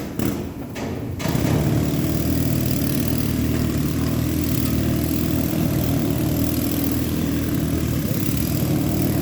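Arc welding: the steady, harsh buzz of the welding arc, which starts abruptly about a second in and holds steady as a bead is run.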